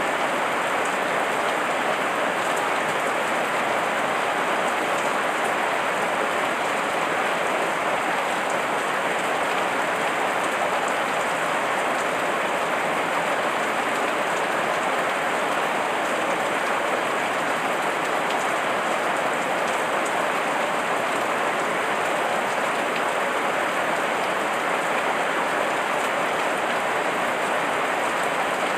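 Heavy rain falling in a steady downpour, an even hiss with fine drop patter on surfaces.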